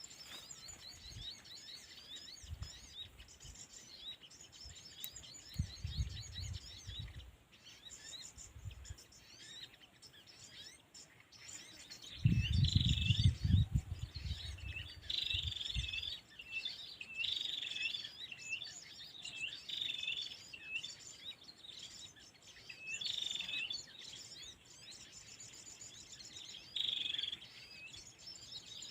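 Small birds chirping: a thin, steady twitter of high chirps, and from about twelve seconds in a louder short hooked call repeated about once a second in runs. Low rumbles come in around six seconds and, louder, from about twelve to sixteen seconds.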